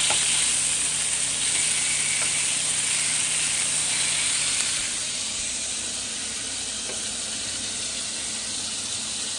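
Bacon and French toast sticks sizzling in frying pans, a steady hiss of frying fat. The sizzling gets a little quieter about halfway through.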